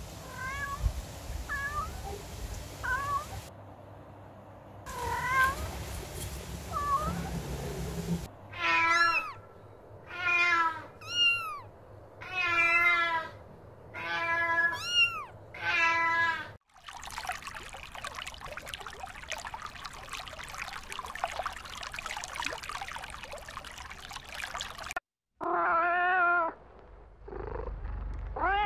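Kittens meowing: small high mews in the first few seconds, then a run of louder meows about one a second. A stretch of steady noise with no meows follows, and a single meow comes near the end.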